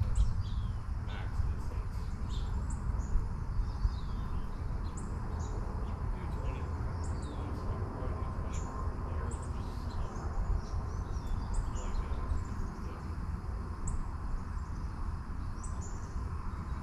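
Small birds chirping and calling repeatedly, short high notes and quick whistled glides, over a steady low rumble.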